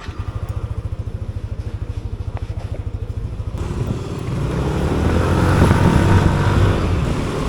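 A vehicle engine starts and idles with a rapid, even low pulse. About three and a half seconds in it revs up and pulls away, growing louder.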